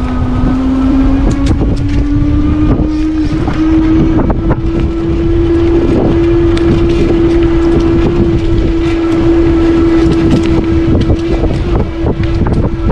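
Electric bike motor whining under power, its pitch rising slowly as the bike gains speed, with wind buffeting the microphone and short rattles and clicks from riding over the bumpy path.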